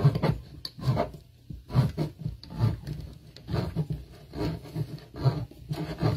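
Pampered Chef hand-crank can opener cutting open a can of enchilada sauce: a rasping, clicking grind that repeats about twice a second as the crank is turned.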